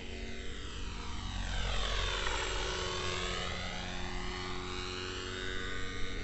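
Glow-engine RC helicopter running in flight, a steady engine and rotor drone with a phasing whoosh that sweeps down and back up about two to three seconds in as it moves.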